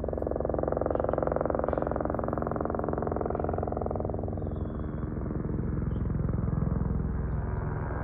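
Airbus H125 helicopter flying by, its turbine and rotor running steadily. The higher part of the sound fades about halfway through, leaving a deeper rotor sound that swells and dies back near the end.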